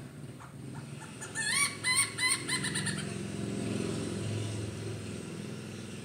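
Hornbill calling: a quick run of about five loud call notes, each rising then falling in pitch, starting about a second in. A low engine rumble follows and fades near the end.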